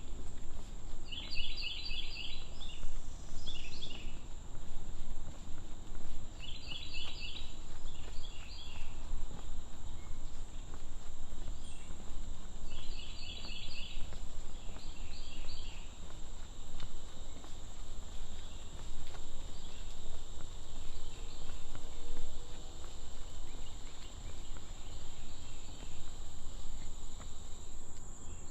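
Insects droning on one steady high note, with bursts of quick high chirping calls every several seconds, over a low rumbling noise.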